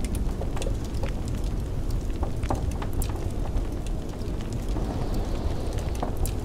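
Wood fire crackling with irregular sharp pops over a steady low rumble of blizzard wind, with a brief hissing gust about five seconds in.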